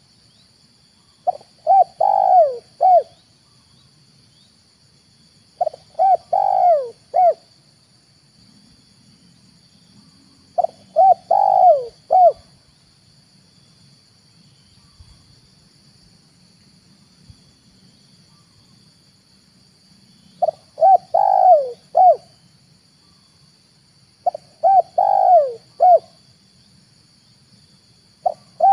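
Spotted dove (tekukur) cooing: five phrases of three to four notes each, a short note, a longer rolling coo, then a clipped final note, with a pause of about eight seconds before the fourth phrase and a sixth starting at the end.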